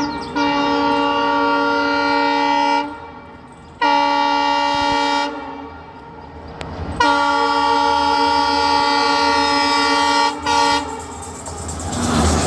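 Locomotive horn sounding four blasts: a long one, a shorter one, another long one and a brief toot. A train's rumble then builds near the end.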